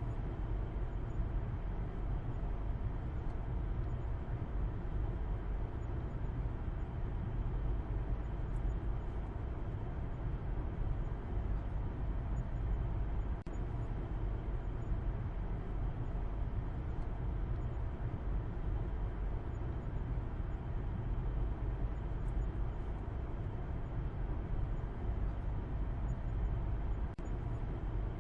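A car driving at a steady speed, its engine and tyre noise making a continuous low rumble that does not rise or fall.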